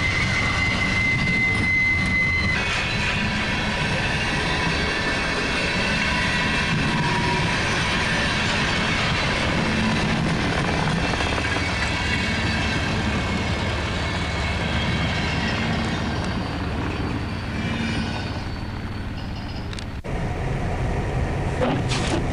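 A train rolling past: steady rumble of the cars and wheels, with a thin, high wheel squeal for the first two or three seconds. The sound eases near the end and breaks off sharply into a different sound.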